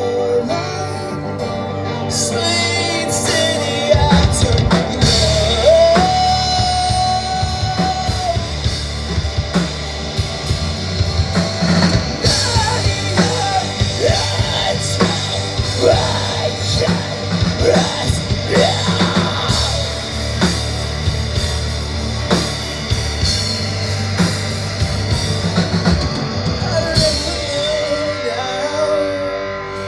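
Live rock band playing with a drum kit; the full band with heavy drums and bass comes in about four seconds in.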